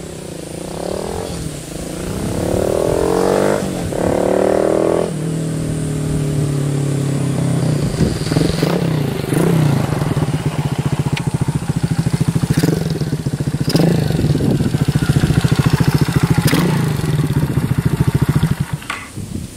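Chinese-made single-cylinder minibike engine with an aftermarket muffler, revving up through the gears over the first five seconds with two shifts, then running at a steady cruise with small rises and falls in revs. It dies down near the end.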